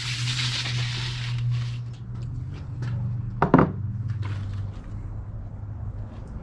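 Handling noises: a rustle lasting about two seconds, then a single sharp knock a little past halfway and a few faint clicks, over a steady low hum.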